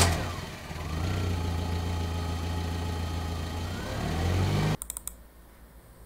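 Car engine running steadily, its pitch rising briefly near the end, then cutting off abruptly almost five seconds in, followed by a few short clicks.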